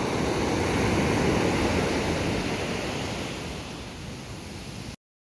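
Steady rushing noise of ocean waves and surf, fading near the end and then cutting off abruptly.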